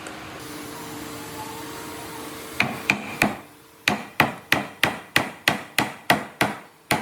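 Hammer blows: three sharp, ringing strikes, a short pause, then a steady run of about three strikes a second. Before the blows there is a steady low hum.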